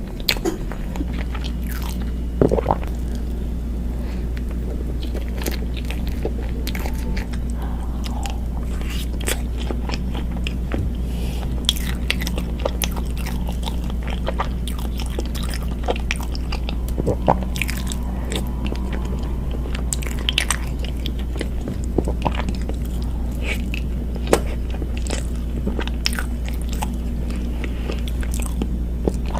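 Close-miked eating of cake: biting and chewing, with scattered short, sharp crunches and clicks, over a steady low hum.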